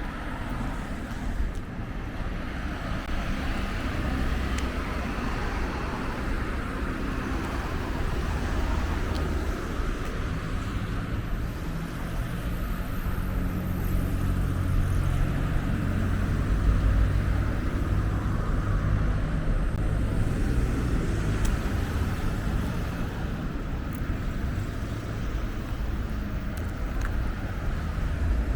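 Outdoor street ambience: a steady low rumble, typical of road traffic, with no distinct events standing out.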